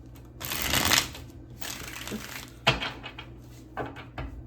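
Tarot cards being shuffled by hand: a long papery rustle of cards riffling, then a shorter one, followed by a few sharp card snaps and taps.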